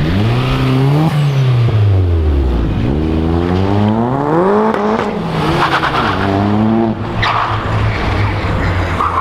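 BMW 1 Series hatchback's engine revving hard as it pulls away: the revs climb, drop back, then climb again in steps, with a short tyre squeal of wheelspin partway through.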